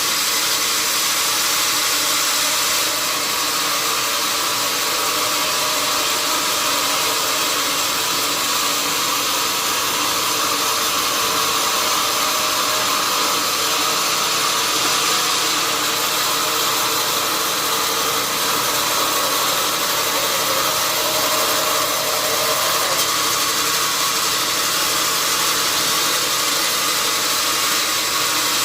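Sawmill saw running steadily: an even hissing whir with a faint hum beneath, unbroken throughout.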